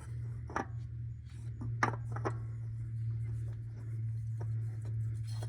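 A new oil filter being handled and worked up onto the filter housing under a Dodge Ram's 5.7L Hemi, giving a few light clicks and scrapes over a steady low hum.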